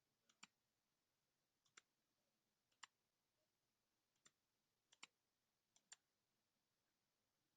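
Faint computer mouse clicks: six quick double clicks spaced about a second apart.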